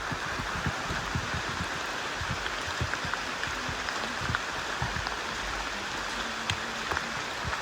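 Steady rushing of water, with irregular low thumps scattered through it.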